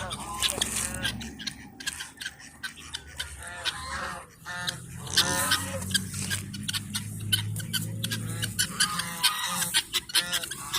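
Geese honking again and again among other farmyard fowl, with many short sharp clicks between the calls.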